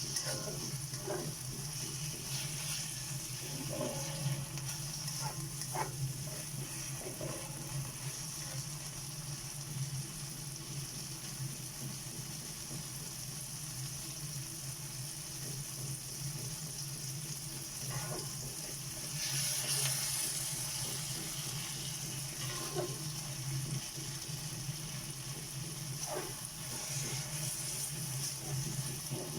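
Food sizzling in oil in a pan, a steady hiss that swells briefly about two-thirds of the way through, over a constant low hum, with a few light clinks of a utensil.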